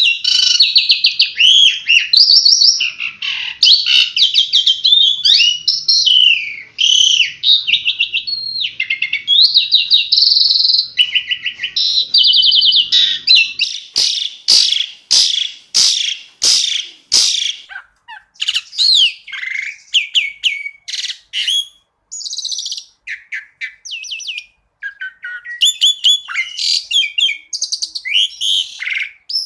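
Pied starling (jalak suren) singing a fast, varied song of chirps, whistles and rattling trills, with a run of about eight sharp clicking notes about halfway through.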